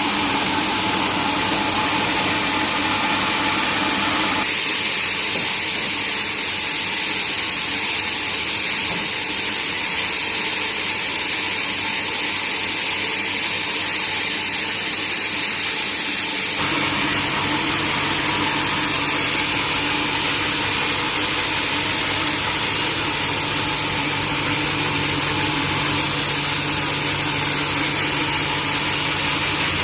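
Sawmill machinery running steadily with a loud, hissing mechanical noise. Its character changes abruptly twice, about four seconds in and about sixteen seconds in, and a steady low hum comes in after the second change.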